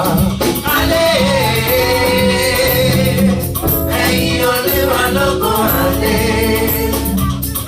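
Live gospel praise-and-worship singing by a group of voices with instrumental accompaniment, the voices holding long notes over a steady bass.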